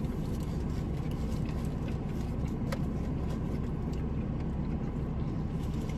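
Steady low rumble of a running car heard from inside, with a few faint clicks of food being handled and eaten.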